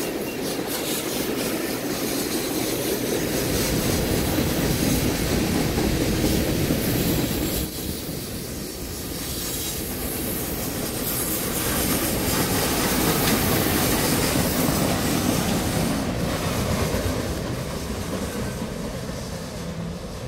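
Freight train boxcars rolling past on the rails: a steady heavy rumble of steel wheels on track with clickety-clack, dying away over the last few seconds as the end of the train moves off.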